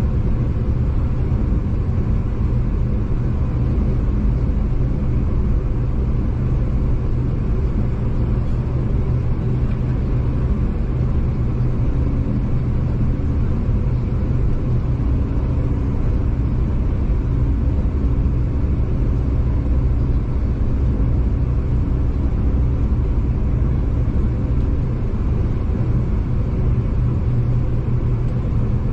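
Steady rumble of a V/Line passenger train running along the line, heard from inside the carriage, with a faint steady hum over the low roar.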